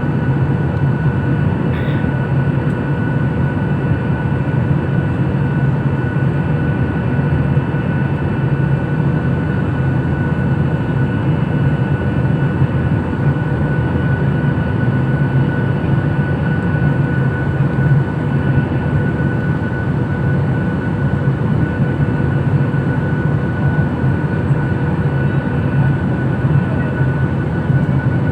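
Steady drone of an airliner's engines in flight, heard inside the cabin, with a constant whine riding over the low rumble.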